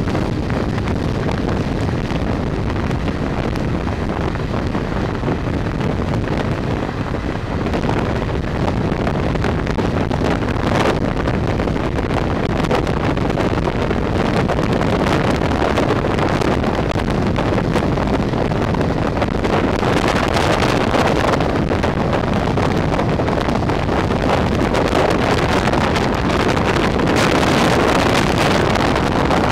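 Express passenger train running at speed, heard from an open coach door: a steady rush of wind on the microphone over the rumble of the coaches' wheels on the rails, with occasional clicks. The noise swells a little near the end as the train runs past a station platform.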